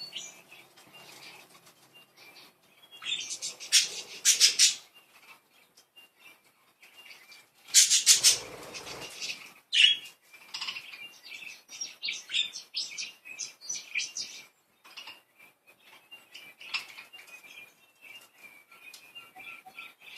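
Pet budgies chirping and chattering in a run of short, high calls, with two louder, busier spells about three seconds in and about eight seconds in.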